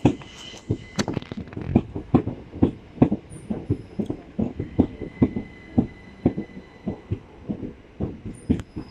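Southern Class 377 Electrostar electric multiple unit running past along the platform, its wheels knocking over the rail joints in a rhythmic clatter of about three knocks a second, with a faint steady whine.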